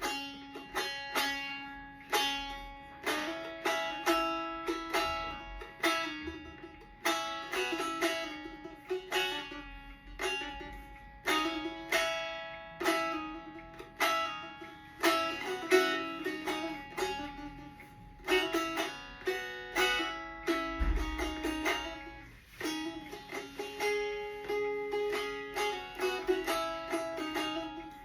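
A plucked string instrument played solo as an improvisation: a steady run of sharply struck notes and chords, each ringing out and fading.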